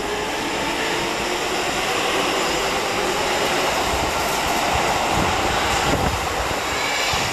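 Keikyu electric train running past along a station platform: a steady rolling rumble of wheels on rails with a faint motor whine, the low rumble growing heavier from about halfway.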